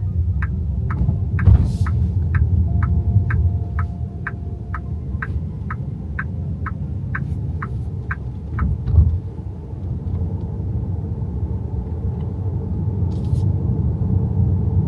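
Low road and tyre rumble inside the cabin of an XPENG G6 electric SUV, with the turn-signal indicator ticking about twice a second until it stops about nine seconds in, followed by a thump.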